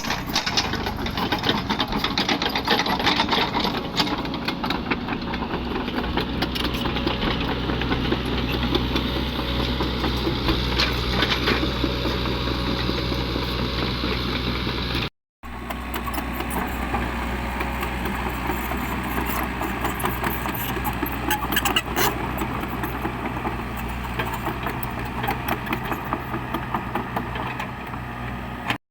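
Caterpillar 307E2 mini excavator's diesel engine running steadily, with rattling and clattering over it. The sound cuts out briefly about halfway, then carries on.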